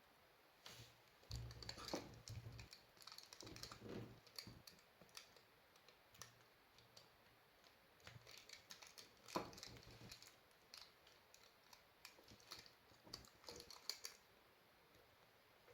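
Faint, irregular small clicks, taps and handling noises of hands working with small hard objects, some with a dull low thud.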